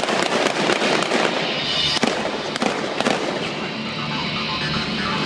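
Loud show music with a rapid, irregular run of sharp pops and cracks through the first few seconds, giving way to a steadier roar near the end.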